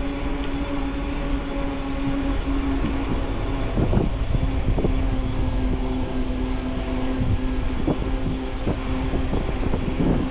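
Electric mountain bike's drive motor whining steadily under pedal assist, with wind rumble on the microphone and a few sharp knocks and rattles from the bike going over bumps.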